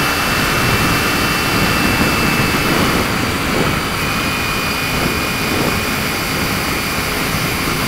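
Kawasaki Ninja 250 motorcycle with a Pipewerx aftermarket exhaust, baffle fitted, running at a steady pace on the road, its engine note mixed with steady wind rush.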